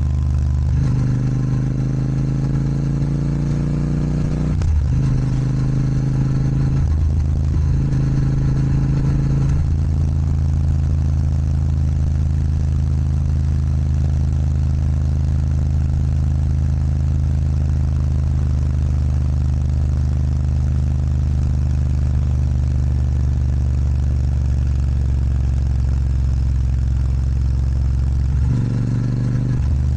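Royal Enfield Super Meteor 650's parallel-twin engine through an aftermarket Rhino Racing sports exhaust, accelerating up through the gears: the pitch rises and drops at each shift, about four times in the first ten seconds. It then holds a steady cruise, with a brief dip in revs near the end.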